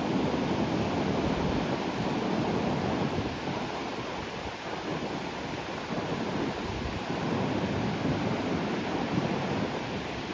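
Sea waves washing onto the shore, a continuous surf noise that eases a little partway through and then builds again, with some wind on the microphone.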